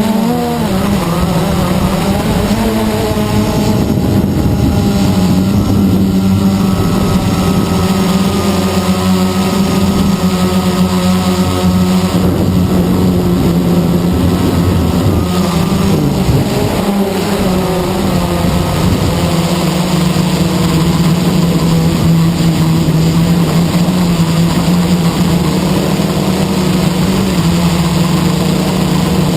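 Blade 350 QX quadcopter's brushless motors and propellers whirring in flight: a loud, steady hum that wavers in pitch near the start and dips briefly about halfway as the throttle changes.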